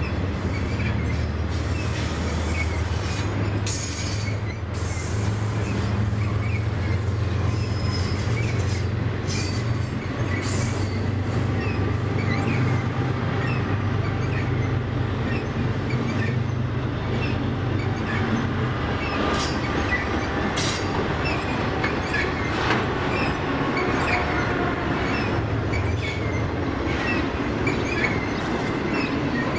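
Intermodal freight train's cars rolling past: a steady rumble of steel wheels on rail, with repeated short wheel squeals and scattered clanks from the cars.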